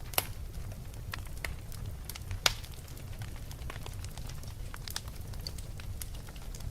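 Fireplace fire crackling: scattered sharp pops, the loudest about a quarter second in and again about two and a half seconds in, over a steady low rumble.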